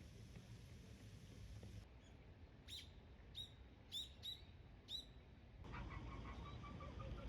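A small bird chirping faintly, five short sharp calls over about two seconds in the middle. Soft piano music fades in near the end.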